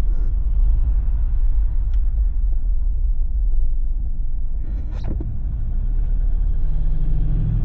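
Steady low rumble of road and engine noise inside a Jeep's cabin as it drives along. A brief high sound rises in pitch about five seconds in.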